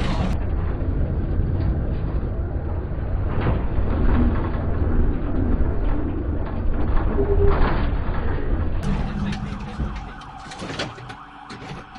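Loud, steady engine and road noise from a police car in a high-speed chase, falling off about ten seconds in.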